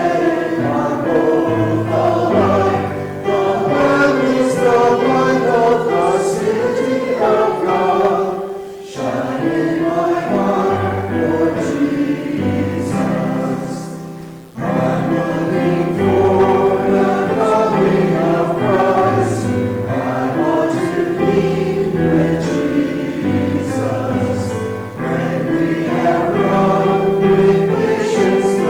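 Church congregation singing a hymn with piano accompaniment, in sustained phrases that pause briefly twice.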